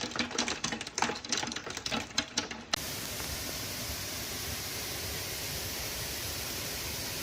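Storm footage audio: a rapid, irregular clatter of many small impacts, cutting suddenly a little under three seconds in to a steady rushing noise.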